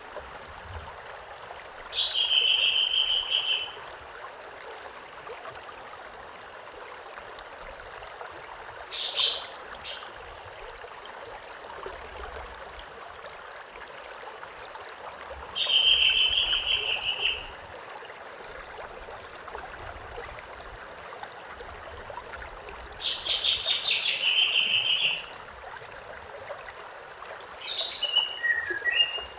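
A stream running steadily, with a bird singing over it: three trilled phrases of a second or two each, and a few short sharp notes between them, about a third of the way in and again near the end.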